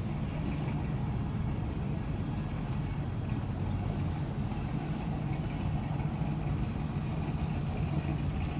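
1955 Chevrolet Bel Air's engine running steadily through its exhaust at a low, even pitch, without revving.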